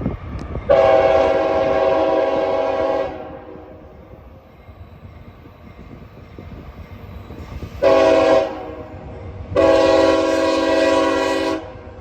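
Diesel locomotive's multi-chime air horn on a CSX coal train sounding three blasts: long, short, long. A steady chord in each blast, over the low rumble of the train.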